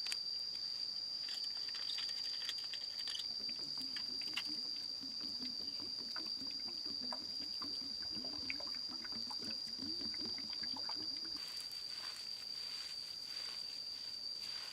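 Insects keeping up one steady high-pitched drone, with scattered light ticks and clicks, and a low wavering warble from about four seconds in until about eleven seconds in.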